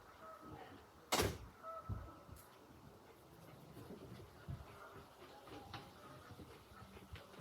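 A door opened about a second in, with a short loud rushing slide, followed by a few soft thumps.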